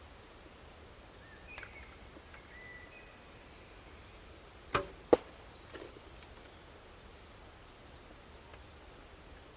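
Two sharp knocks, about a third of a second apart, a little before the middle, over a faint quiet background.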